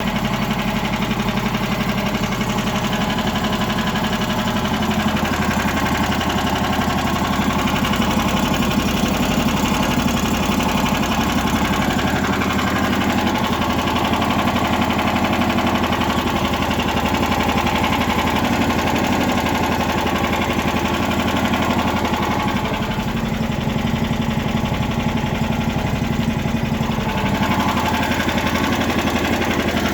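Lifan engine in a homemade karakat all-terrain vehicle running steadily at idle on one of its first runs after installation.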